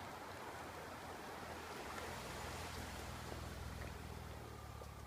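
BMW E39 525i straight-six idling quietly and steadily through an F&F Motorsport full exhaust system from the catalytic converter back, warmed up, with a low, even burble between revs.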